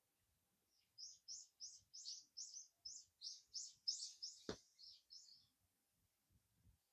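A small songbird giving a fast series of about fourteen short high chirps, roughly three a second, starting about a second in and stopping a second before the end. One sharp click sounds near the end of the series.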